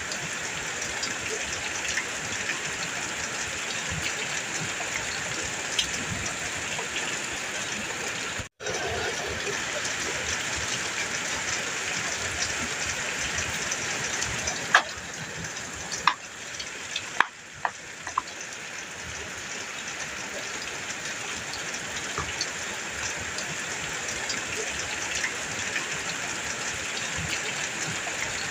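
Heavy rain falling on a metal roof: a steady hiss with individual drops striking. The sound cuts out for an instant about a third of the way in, and a few louder, sharper drips land in the middle.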